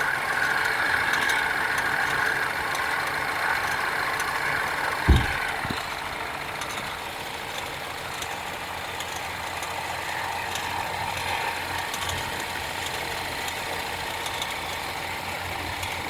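BMW 316i F30 engine idling on a cold first start, with the ticking of a failing radiator/AC fan belt tensioner. One sharp thump about five seconds in, after which the running gets a little quieter.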